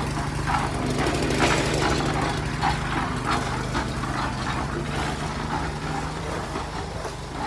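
Engine of road-construction machinery running steadily at idle, a low even hum, with scattered knocks and clatter over it.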